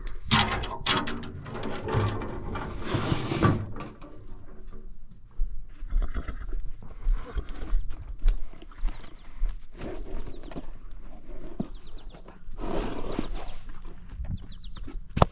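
A horse giving a low, pitched vocal call lasting about three seconds just after the start, with scattered knocks and shuffling later on.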